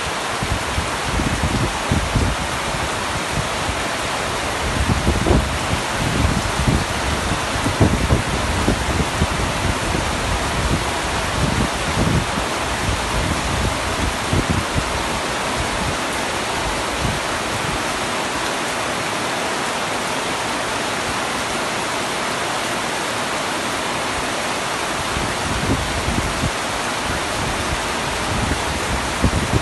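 Heavy rain falling steadily on a tent roof: a dense, even hiss with irregular low thumps, busiest in the first half and again near the end.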